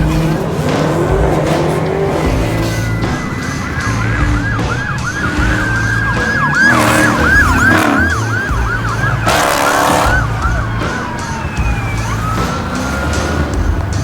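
Police car siren in fast yelp mode, quick rising-and-falling sweeps about three a second, switching to a slower rising wail near the end, over vehicle rumble. Two short rushes of noise break in around the middle.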